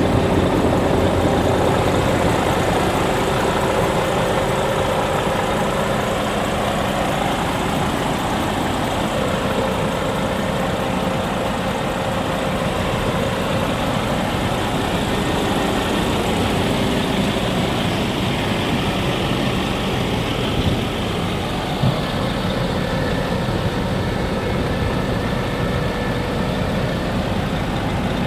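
Scania G440 tractor unit's 13-litre inline-six diesel engine idling steadily, with two brief clicks in the later part.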